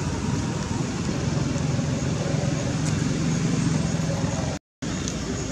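Steady background noise with a low, even hum, broken by a split-second dropout to silence near the end.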